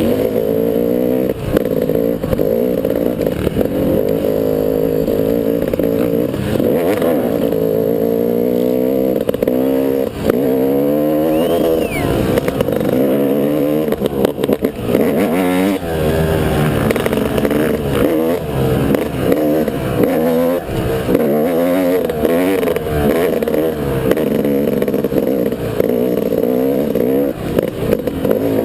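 Dirt bike engine being ridden, its pitch rising and falling continually as the throttle opens and closes and the gears change, with some clatter from the bike.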